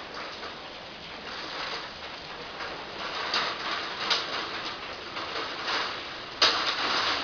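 Heavy rain falling and splashing, a dense crackling patter that suddenly gets louder about six and a half seconds in.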